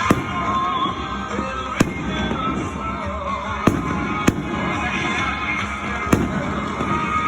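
Fireworks bursting: five sharp bangs at uneven intervals of roughly half a second to two seconds, over a continuous background of music.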